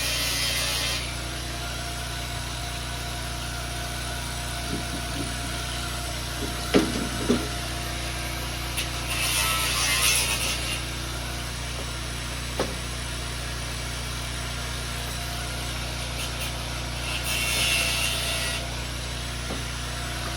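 A power tool cutting in three short bursts, near the start, about nine seconds in and about seventeen seconds in: cutting a piece out to reach an engine's throttle. A steady low hum runs underneath, and a few sharp knocks come around seven seconds.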